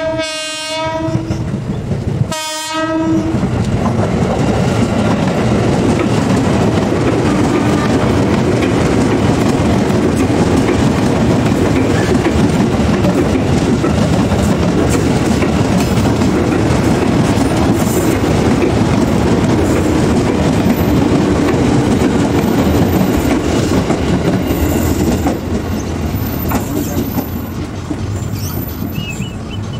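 A KAI Commuter electric train sounds its horn twice: one blast ending just after the start and a short one about two and a half seconds in. A train then runs past close by with steady wheel-on-rail noise for over twenty seconds, easing off near the end.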